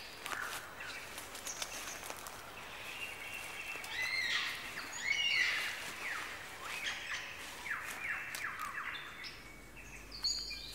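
Forest birdsong: several birds whistling and chirping, with many short notes sweeping up and down in pitch.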